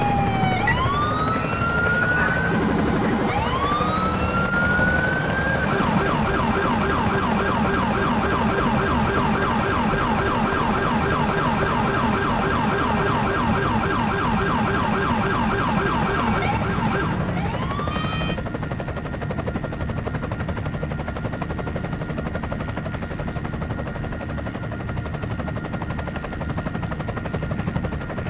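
Police car sirens wailing up and down, switching about six seconds in to a fast yelp that runs until the siren cuts off after one last rising glide, about eighteen seconds in. After that only a steady vehicle noise remains.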